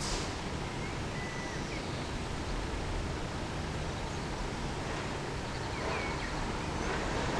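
Steady outdoor background noise, with a few faint, brief bird chirps.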